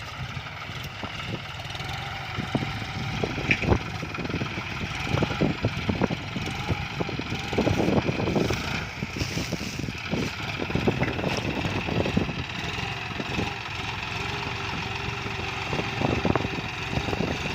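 John Deere tractor's diesel engine running steadily under load while pulling a six-disc plough, with repeated irregular knocks and clatter as the plough strikes tree stumps.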